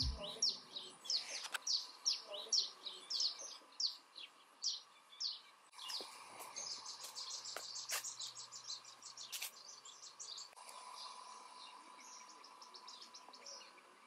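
Birds singing: a series of short, high, falling chirps about three a second, then a fast high trill about halfway through that fades to a fainter trill near the end. A few sharp clicks come in the middle.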